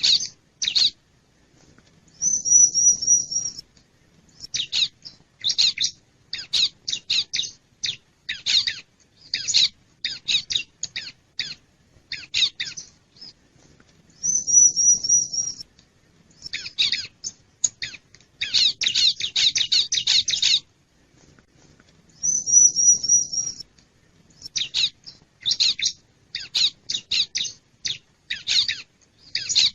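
Bar-winged prinia (ciblek) calling: bursts of sharp, rapid chip notes, broken three times by a high, fast trill about a second and a half long.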